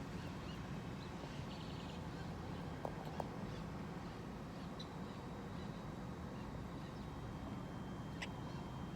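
Birds giving a few short, high calls over a steady low rumble, with two sharp clicks about three seconds in.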